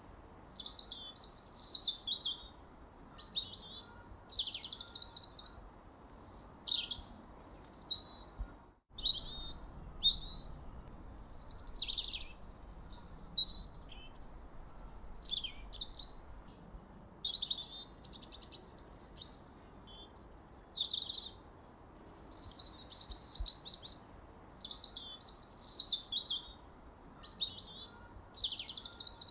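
Songbirds singing, a steady stream of varied, quick chirping and warbling phrases with hardly a pause, over faint background hiss. The sound cuts out completely for an instant about nine seconds in.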